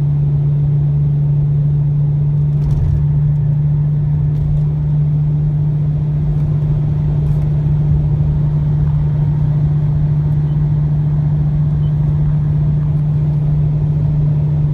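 2003 Lexus GS300's 2JZ-GE inline-six with a muffler delete, cruising at a steady highway speed: a loud, even exhaust drone that holds one pitch throughout.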